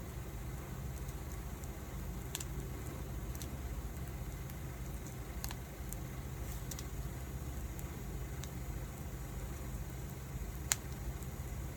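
Wood fire burning, with scattered sharp crackles and pops over a steady low rumble; the loudest pop comes near the end.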